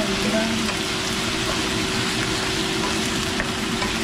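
Beef stir-frying in hot oil, a steady sizzle.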